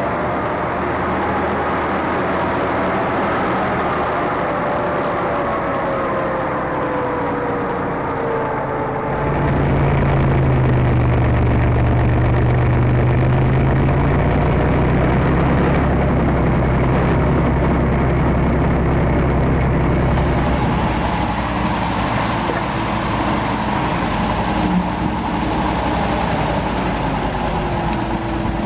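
T-150K tractor's diesel engine running steadily. About nine seconds in it gets louder and deeper, as if taking more load or revs.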